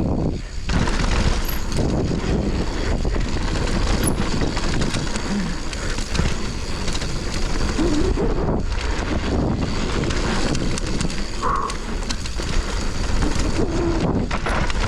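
Mountain bike descending a dirt flow trail at speed: wind rushing over the microphone and tyre noise on the dirt, loud and steady with a few brief dips.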